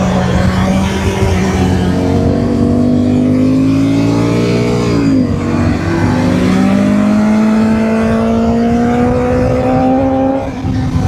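BMW motorcycle engine pulling under acceleration, its pitch rising steadily, with an upshift about five seconds in and another near the end.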